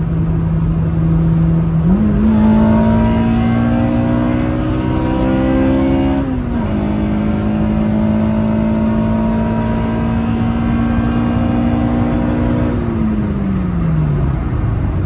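Engine of a 2000 Honda Civic Type R (EK9), a 1.6-litre VTEC four-cylinder, heard from inside the cabin under road noise. The revs step up about two seconds in and climb slowly, then drop sharply with a gear change about six and a half seconds in. They climb slowly again and fall away near the end as the throttle is lifted.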